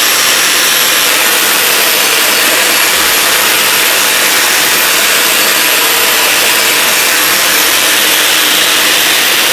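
High-speed grinder in a flush-cut frame running at full speed and grinding down a hardened concrete patch. A steady high whine sits over a loud, even grinding hiss.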